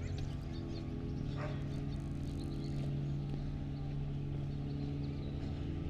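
Outdoor residential ambience: a steady low mechanical hum, with birds chirping on and off above it.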